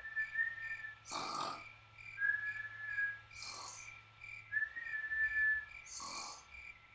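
Cartoon snoring sound effect for a sleeping animal: a breathy snore, then a held whistle of about a second, repeating about every two and a half seconds. Crickets chirp steadily underneath.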